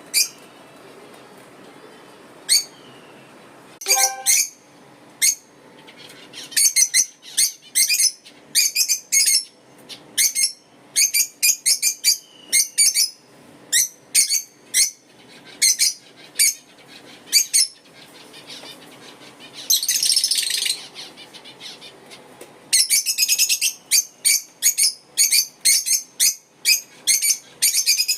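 Lovebirds chirping: short, sharp, high-pitched calls, a few scattered at first, then coming in quick runs from about six seconds in, with a stretch of continuous chattering about two-thirds of the way through.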